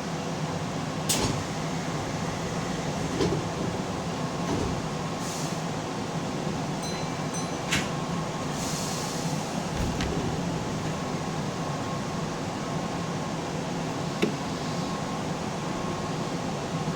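Inside a Keihan commuter train car: the car's air conditioning and equipment hum steadily. A few sharp clicks come through it, and a short run of high beeps sounds about seven seconds in.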